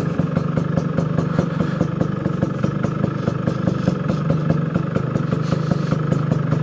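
Two-stroke motorcycle engine running steadily at low revs, a constant low note with a rapid, uneven clatter over it.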